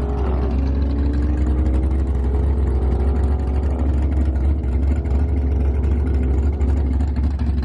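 A car engine running with a heavy low rumble, its pitch slowly climbing and then falling away about four seconds in.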